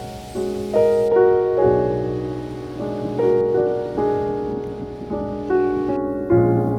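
Soft piano music: single notes played at an unhurried pace over a held bass, each note ringing on.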